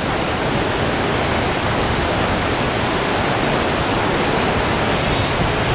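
Steady rush of whitewater pouring through a two-step river rapid.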